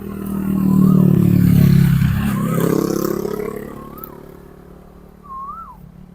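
A motor vehicle passing close by. Its engine note swells loud over the first couple of seconds, dips and then climbs in pitch, and fades away.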